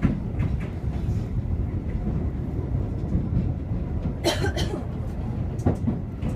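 Keio 8000 series electric train running, heard from inside the passenger car: a steady low rumble of wheels on the rails, with a few short sharp sounds about four and six seconds in.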